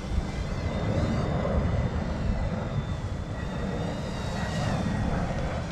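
Eachine E120 mini electric RC helicopter in flight, its motor and rotors giving a steady high whine. Wind buffets the microphone with a heavy, uneven rumble underneath.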